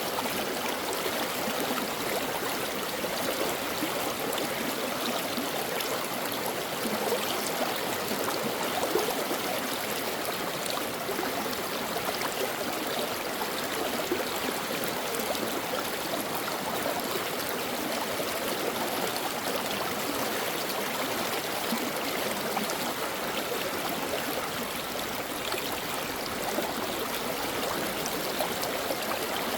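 Mountain stream flowing and burbling over rocks, a steady rush of water with small trickling splashes.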